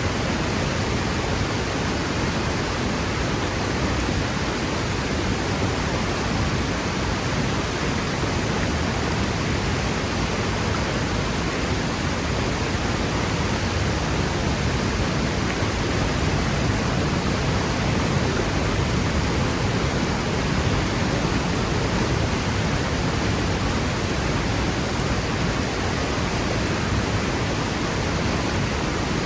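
Waterfall plunging into its pool: a steady rush of falling water with no breaks.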